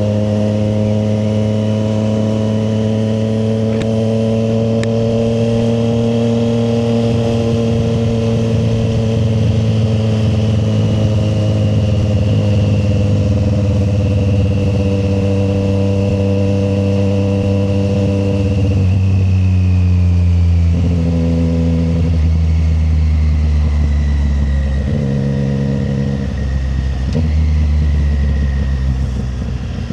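Triumph Street Triple 765 RS's inline three-cylinder engine pulling at a steady cruise, its pitch creeping up slowly. About two-thirds through the pitch drops, and a few short throttle changes follow near the end.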